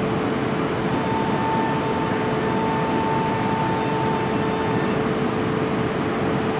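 An E4 series Shinkansen train standing at the platform with its equipment giving a steady hum and rush. A higher steady tone joins about a second in and stops after about four seconds.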